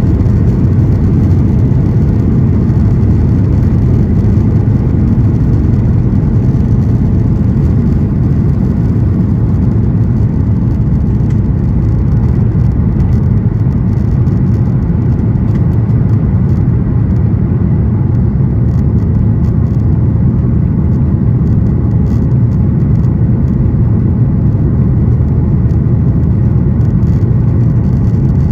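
Steady low rumble inside a Boeing 737-800's cabin from its CFM56-7B jet engines running, heard from a passenger seat. The level holds even, with no spool-up or change.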